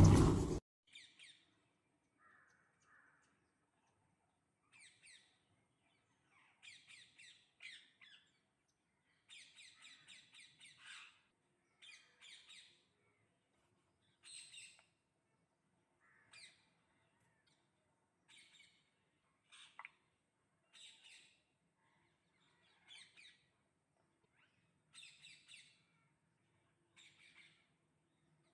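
Parrots giving short, harsh squawks, repeated every second or two, some in quick pairs. A brief loud noise cuts off right at the start.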